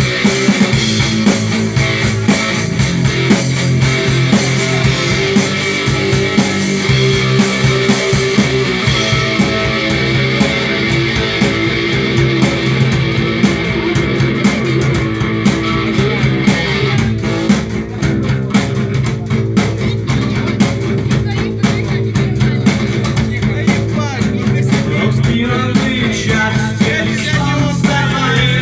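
Rock music with guitar playing throughout, a rock cover song. About two-thirds of the way through, the sound thins and gets less bright.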